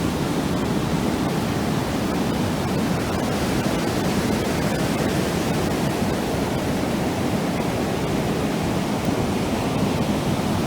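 Ocean surf breaking and washing up the shore at high tide: a steady, unbroken rush of waves.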